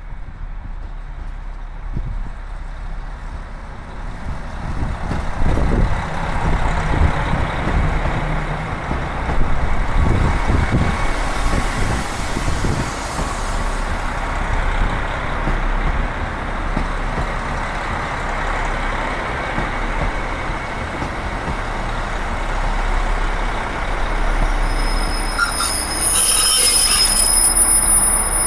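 KiHa 261 series 1000 diesel multiple unit running slowly into the station: diesel engine and wheels rumbling over the rails, growing louder about five seconds in, with a high-pitched squeal near the end.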